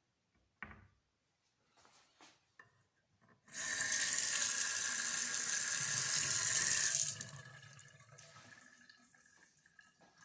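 Kitchen tap running into a sink for about three and a half seconds, starting a few seconds in and then shut off, followed by faint dripping.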